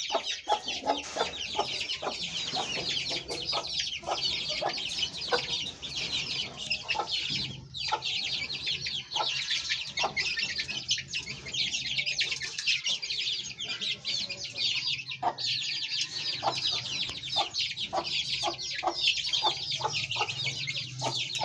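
A brood of Aseel chicks peeping without a break, many high, falling chirps overlapping, with scattered lower clucks among them.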